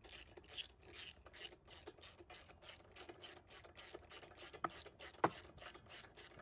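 Socket ratchet clicking faintly in quick, even strokes, about five a second, while a new spark plug is torqued down in a small mower engine. Two sharper clicks come near the end.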